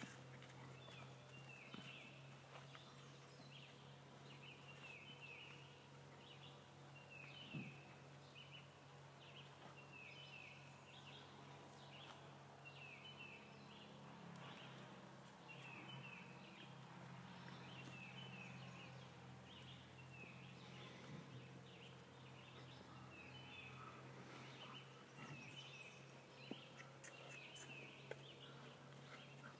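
Faint outdoor ambience: a bird calling over and over with short chirps, over a low steady hum, with a couple of faint single knocks.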